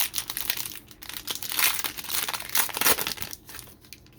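Foil trading-card pack wrapper crinkling as it is handled and opened, dense and crackly, dying down about three seconds in.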